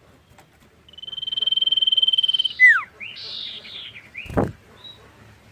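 Common iora (cipoh) singing: a long, drawn-out high whistle that swells in volume for about a second and a half and ends in a sharp downward slur, followed by short chirped notes and a quick falling sweep.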